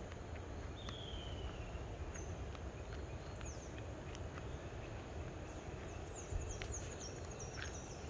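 Tropical forest ambience: a steady high insect-like hum with birds calling, a descending whistle about a second in and a quick run of short high chirps near the end, over a low rumble of wind on the microphone. A single knock about six seconds in.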